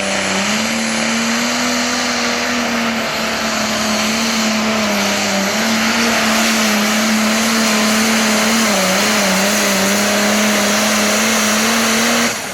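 Super Farm pulling tractor's diesel engine held at full throttle during a pull, a loud steady high-revving run with the pitch holding nearly level and dipping slightly now and then. The engine cuts back suddenly near the end.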